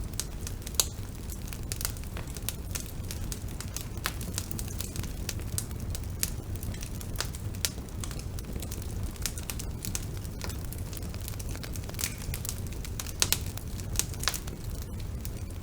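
Bonfire burning with a steady low rumble and irregular crackles and pops of burning wood, a few sharper pops near the end.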